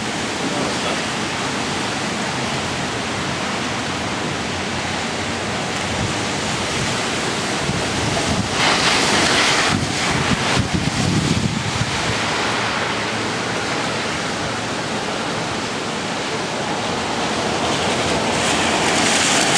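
Hurricane Sandy's tropical-storm-force wind blowing hard and buffeting the microphone, with a stronger gust about halfway through and the wind building again near the end.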